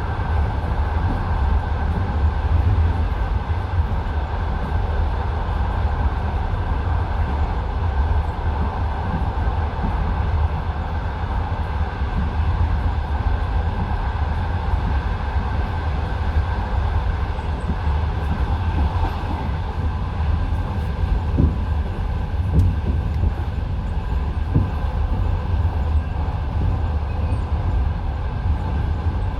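Passenger train carriage rolling along the track, heard from inside: a steady low rumble of wheels on rails, with a few faint clicks in the second half.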